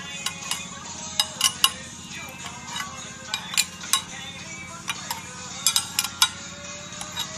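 Sharp metallic clinks and ticks at irregular intervals, some in quick pairs, over a steady low hum.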